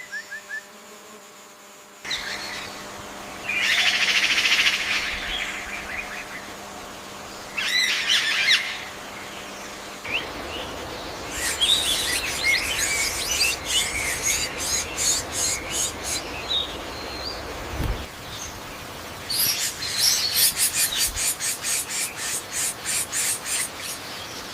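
Birds calling and singing over a steady forest background hiss, the sound changing abruptly a couple of times. In the second half come rapid, fast-repeating chattering trills.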